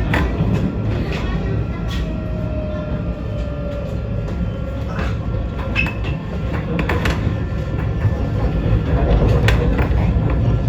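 Alstom Citadis tram running along its track: a steady low rumble with scattered sharp clicks.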